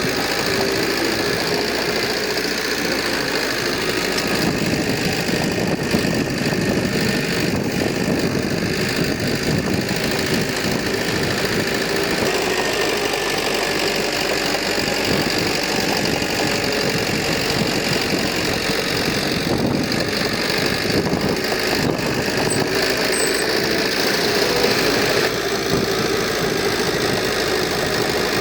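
Heavy construction machine's diesel engine running steadily with a constant drone.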